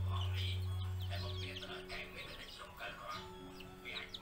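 Birds chirping and calling in quick short notes, over a low steady hum that cuts off about a second and a half in.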